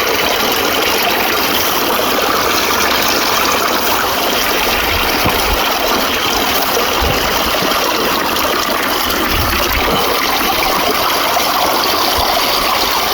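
Steady, loud rush of flowing water from a stream at a spring catchment, with a few faint low knocks.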